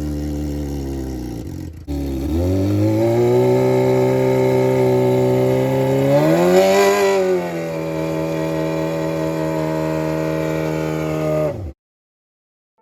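Yamaha R6's inline-four engine running with its exhaust taken off, the engine note falling, briefly dropping out, then rising again and swelling up and back down once before holding steady. The sound cuts off abruptly near the end.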